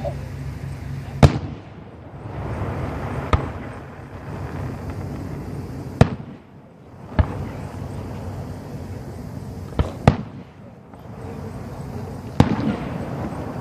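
Professional aerial fireworks shells bursting, about seven sharp bangs at irregular intervals, the loudest about a second in and near the end, over a continuous noisy background.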